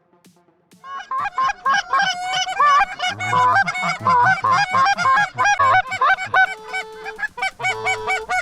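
Canada geese honking: a dense, overlapping run of short honks starting about a second in, with a couple of longer held notes near the end.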